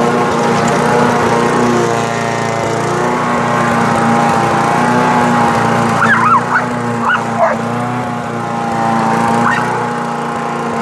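Gasoline lawn mower engine running steadily while a blue nose pit bull lets out a few short barks about halfway through, and one more near the end.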